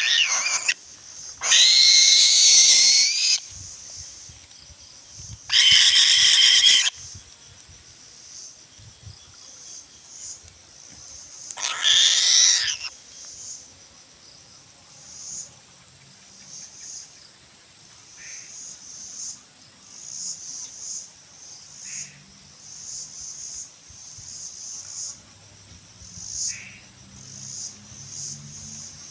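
Eagle screeching: four loud, harsh calls, each one to two seconds long, in the first half. After them, insects chirping in short, even pulses about once a second.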